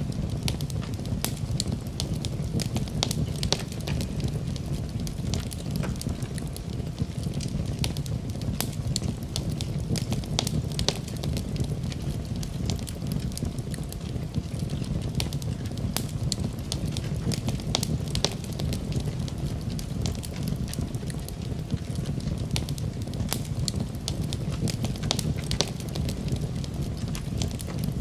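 Wood fire in a fireplace burning steadily, with a low rumble of flame and frequent sharp crackles and pops from the burning logs.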